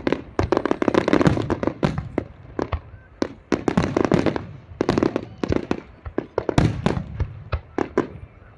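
Fireworks display: a rapid, irregular barrage of sharp bangs and cracks, several a second, echoing between the blasts.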